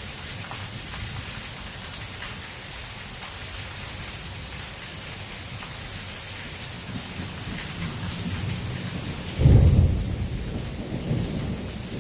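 Heavy rain pouring steadily. A low rumble of thunder builds, then a loud thunderclap breaks about nine seconds in and rumbles off over the next couple of seconds.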